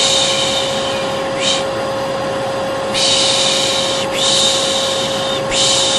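Vacuum cleaner running steadily with a constant hum, under a person's repeated soothing 'shhh' shushing of the kind used to lull a baby: a long shush, a brief 'sh' about a second and a half in, then three more long shushes back to back from about three seconds in.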